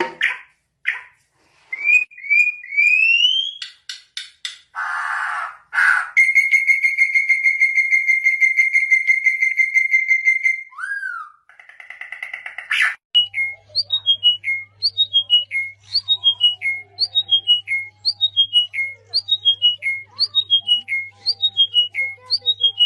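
Pet birds whistling in a run of short clips: rising whistled glides, a long steady whistled note, then a falling whistled phrase repeated over and over over a low steady hum.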